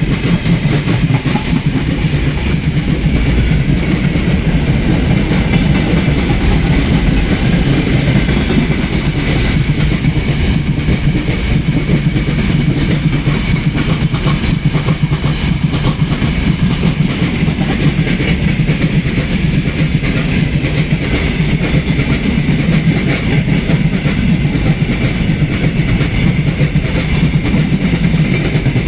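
Iron train wheels knocking over rail joints as a railway car rolls along, a steady clickety-clack over continuous rumbling.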